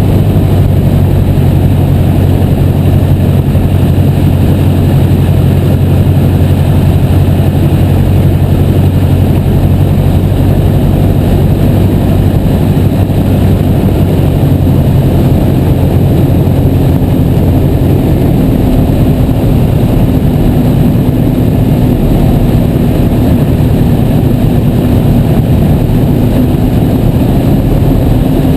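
Piper J3 Cub's Continental A-65 four-cylinder engine and propeller running steadily, loud, with heavy rushing noise. About two-thirds of the way through, the engine note changes to a higher steady tone.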